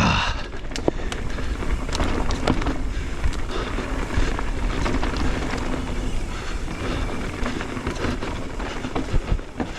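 Mountain bike riding down a rough dirt and rock trail: steady tyre and wind noise, with frequent rattles and knocks from the bike over bumps.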